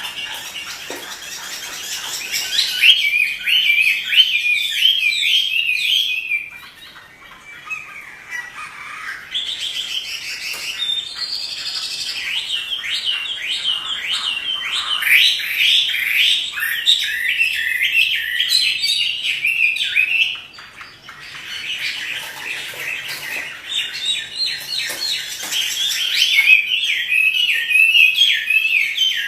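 Chinese hwamei singing a loud, rapid run of varied whistled phrases, with two brief lulls: one about a quarter of the way in and one about two-thirds of the way in.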